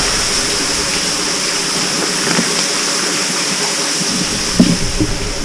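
Water running and dripping inside a tunnel: a steady rushing hiss, with a few dull low knocks near the end.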